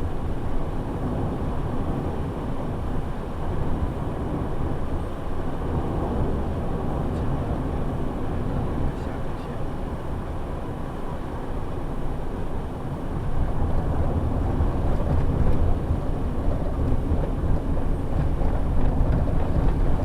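Airport shuttle bus driving, heard from inside the cabin: a steady low rumble of engine and road noise that grows louder about two-thirds of the way through.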